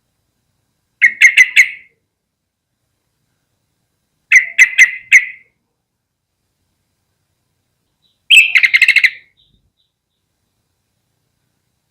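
Yellow-vented bulbul giving three short bursts of rapid chattering notes, the first about a second in and the others roughly three to four seconds apart; the last burst is a quicker run of about eight notes.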